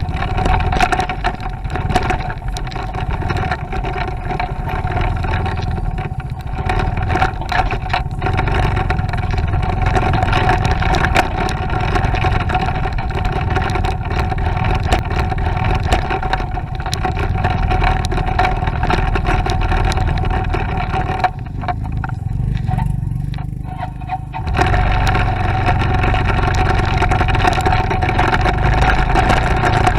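Motorcycle engine running while riding, a steady engine note over low rumble and road noise. A little over two-thirds of the way in, the engine sound eases off for about three seconds, then picks up again.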